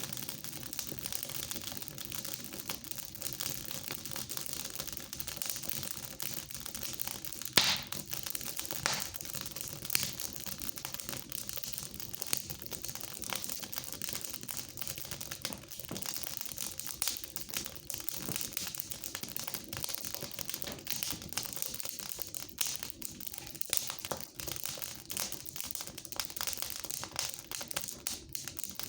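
Fire crackling in a fireplace: a steady hiss full of small snaps and pops, with one sharp, loud pop about seven and a half seconds in and a couple of smaller ones soon after.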